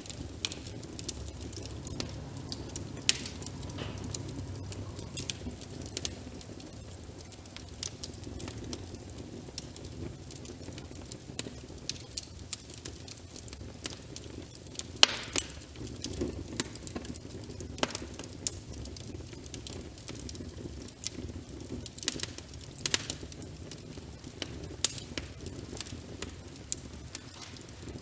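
Wood fire crackling in a fireplace: irregular sharp snaps and pops, a few louder ones, over a low steady rumble, with a soft patter of rain.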